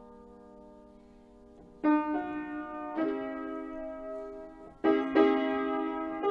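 Background piano music: a held chord fades out, then new chords are struck about two seconds in and again at roughly three and five seconds.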